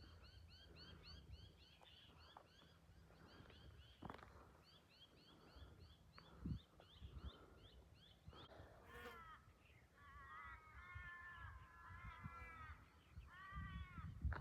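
Faint birds calling at dawn. For the first half there is a rapid run of short high chirps, about five a second. From about halfway in come repeated lower calls, each with several stacked tones.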